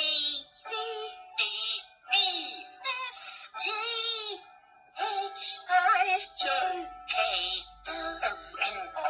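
Electronic phonics learning toy playing a synthetic-sounding sung voice over music, in short sung syllables with brief gaps between them.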